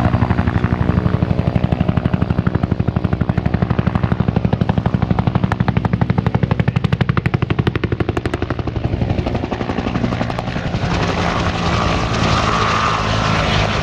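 Bell UH-1 Huey helicopter flying a display, its two-bladed rotor slapping in a fast, even beat of about ten a second over the engine. The slap fades somewhat in the last few seconds, leaving a steadier engine whine.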